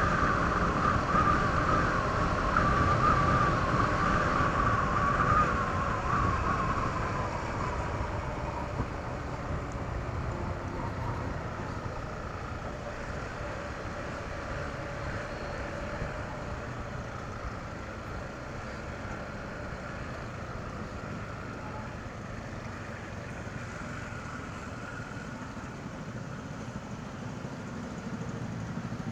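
Honda ADV 160 scooter's single-cylinder engine running on the move through its stock exhaust, with road and wind noise. A wavering whine is loud for the first seven seconds or so, then fades as the overall sound gets quieter.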